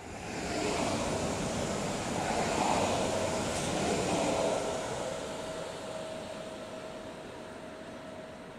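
Train passing: running noise that swells over the first second, stays loud for a few seconds, then slowly fades, with a steady whine holding from about two seconds in.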